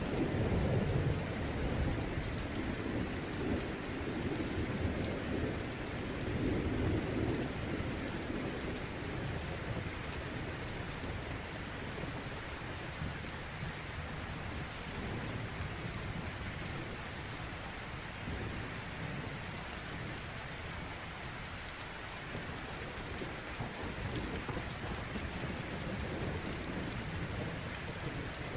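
Steady rain falling, with a low rumble of thunder rolling through the first several seconds and then easing off. Small sharp crackles of a wood fire in a fireplace sound throughout.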